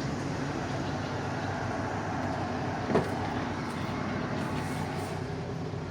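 Old Ford motorhome's carbureted engine idling steadily, with one sharp knock about three seconds in. The owner says the carburetor needs a rebuild.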